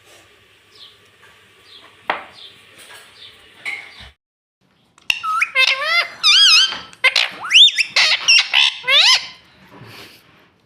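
Pet parrot calling: a rapid run of loud squawks and chirps with quick up-and-down pitch glides, starting about halfway through and lasting some four seconds, after a few faint, quieter sounds.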